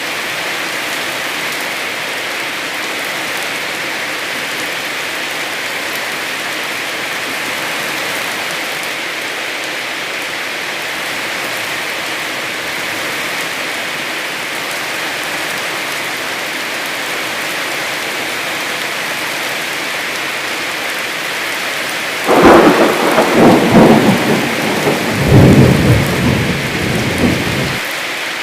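Heavy rain falling steadily, then about three-quarters of the way through a loud roll of thunder rumbling in several surges for about five seconds before stopping suddenly.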